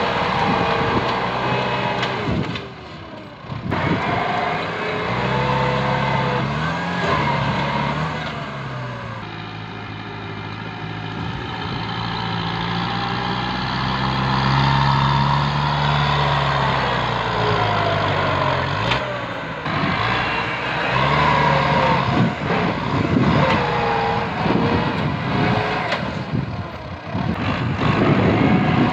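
Kubota M8540 tractor's diesel engine running under changing load, its pitch rising and falling several times, with irregular crackles and knocks over it.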